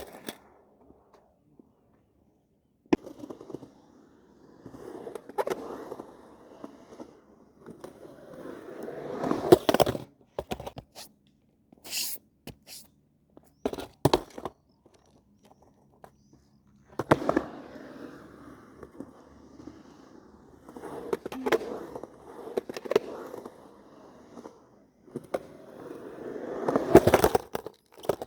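Skateboard wheels rolling on pavement in three passes, each building up to a loud grinding peak, with sharp clacks of the board's tail and deck hitting the ground in between.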